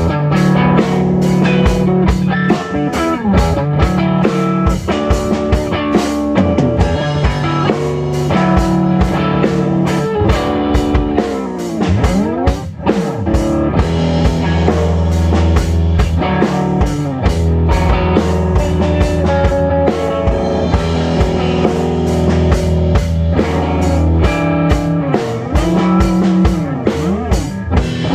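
Live rock band jam: a drum kit keeps a steady beat under guitar and sustained low notes, with a swooping pitch slide about halfway through.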